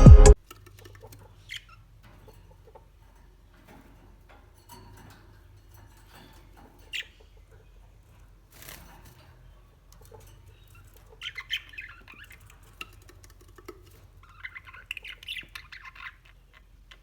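Budgerigars chattering and chirping in two short bursts in the second half, with a few scattered clicks over a low steady hum.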